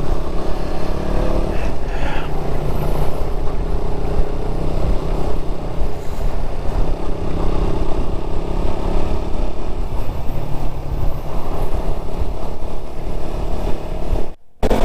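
Motorcycle engine running steadily on the move, over a heavy rushing noise. The sound drops out for a moment near the end.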